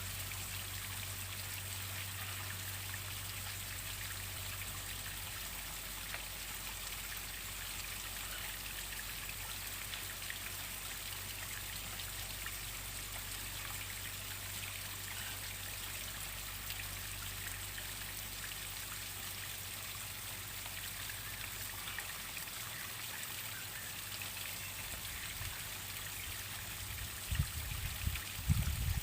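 Waterfall splashing and pattering in a steady, even hiss of falling water. A few low rumbles, like wind on the microphone, come in near the end.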